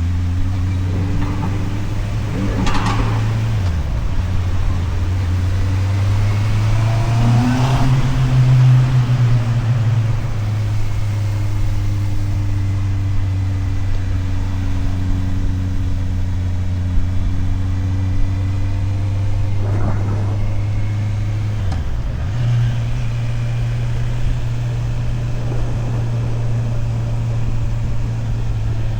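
Motorcycle engine running steadily while riding. Its note rises about eight seconds in and dips briefly twice. A few short swells of hiss come and go over the engine.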